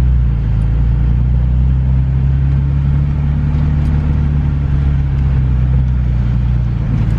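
Twin-turbo Nissan 370Z's 3.7-litre V6 running steadily at low revs, heard from inside the cabin.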